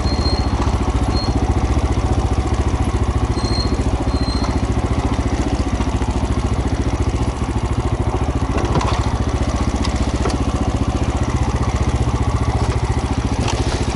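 Single-cylinder trail motorcycle engine running steadily at an even speed, with no revving.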